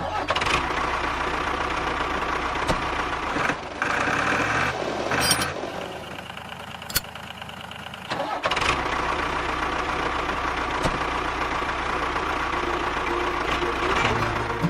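Mini DIY tractor's motor running steadily. It drops quieter about six seconds in and picks up again two seconds later.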